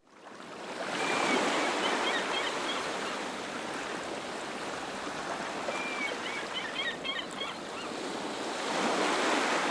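Ocean surf washing on a shore: a steady rushing wash that fades in over the first second and swells again near the end. Two short flurries of small high chirps sound over it.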